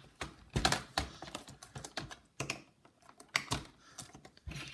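Irregular clicks and taps of plastic laptop casing parts being pressed and handled, as a piece that won't clip in properly is pushed into place.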